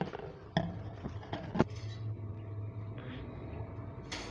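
A handful of sharp clicks and knocks, about four in the first two seconds and one more near the end, over a steady low hum: the quail's cage being handled and opened.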